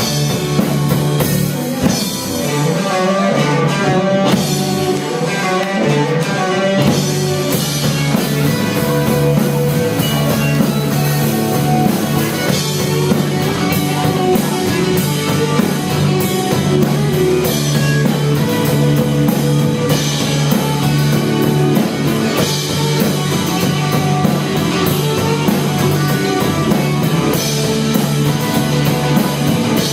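Live rock band playing an instrumental passage: guitar and drum kit with a steady beat, no vocals.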